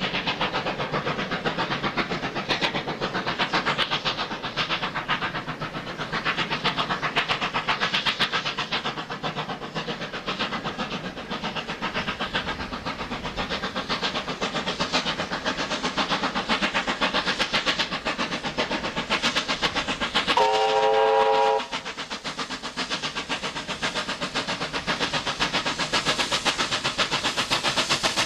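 A NSW C38 class steam locomotive hauling a train, running with a rapid, even beat throughout. Its whistle gives one short blast, about a second long, roughly two-thirds of the way through.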